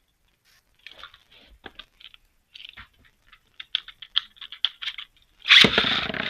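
Light plastic clicking and ticking, then about five and a half seconds in a sudden loud launch of Beyblade Burst spinning tops into a plastic stadium, which continues as a dense whirring rattle.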